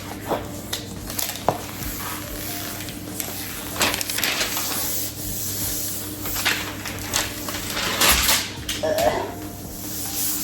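Paper and foam-board pieces being handled, pressed and rubbed down on a craft table: scattered light taps and scraping rustles.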